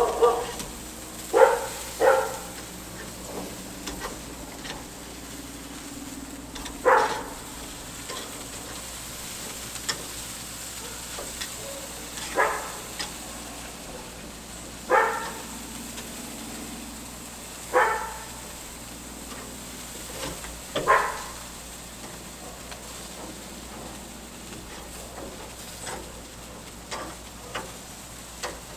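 Pork chops sizzling steadily over a charcoal fire, with a dog barking once every few seconds, about seven single barks in all; the barks are the loudest thing.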